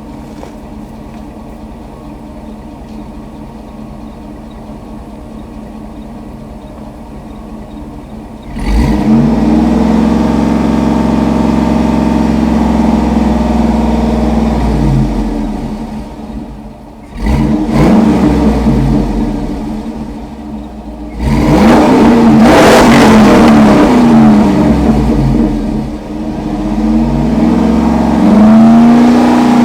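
2006 GMC Yukon Denali's 6.0-litre V8 idling, then revved four times: the first rev about a third of the way in is held high for several seconds, and the others come in quick succession, each rising and then dropping back.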